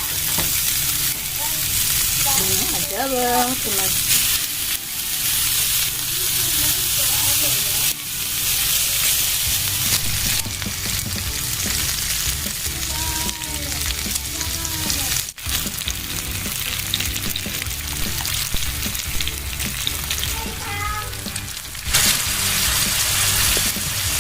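Adobo frying in a pan: a steady hissing sizzle, broken once by a brief drop about fifteen seconds in.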